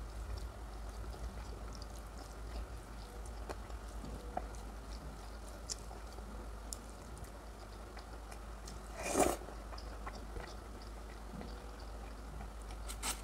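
A person eating close to the microphone, chewing with many small wet mouth clicks, and one louder bite or crunch about nine seconds in.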